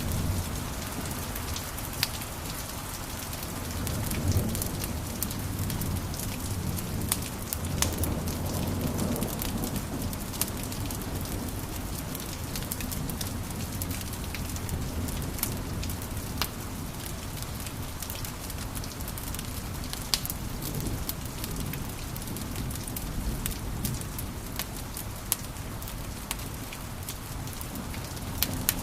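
Wood fire crackling in a fireplace: a steady low rumble of the flames with frequent small snaps and a few louder pops scattered through.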